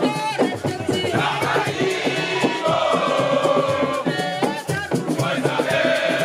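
Music with a chorus of voices singing and chanting together.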